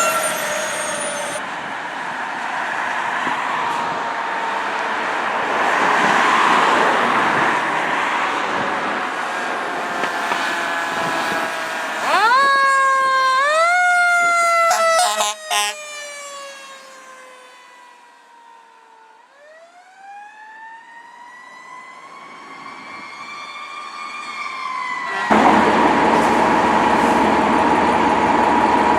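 Fire truck siren over passing traffic noise. About twelve seconds in it rises sharply twice, then winds down slowly before rising again. Near the end the sound cuts to a steady tone over vehicle noise.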